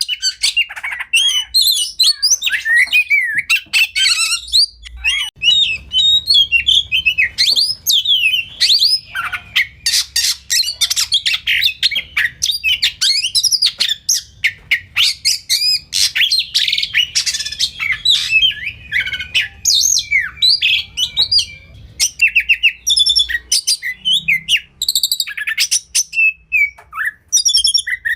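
Oriental magpie-robin (kacer) singing continuously: a fast, varied song of whistles, trills and rapid chattering notes, full of phrases copied from other birds.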